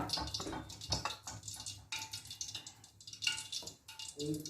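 Hands coating raw chicken pieces, dipped in water and pressed into a dry flour mixture: irregular wet handling sounds and dripping, with crackly rustling.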